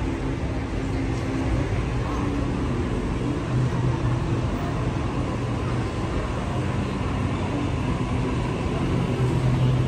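Sydney Trains Waratah double-deck electric train running into the platform and slowing, with a steady rumble of wheels on rail and a low hum.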